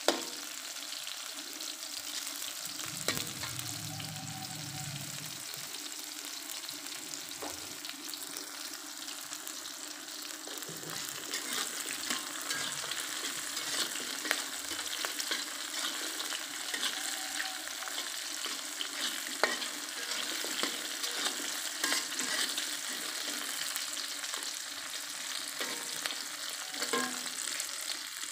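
Chopped shallots, garlic and chilies sizzling in oil in a metal wok, with a steady hiss. A metal spatula stirs them, scraping and clicking against the wok again and again.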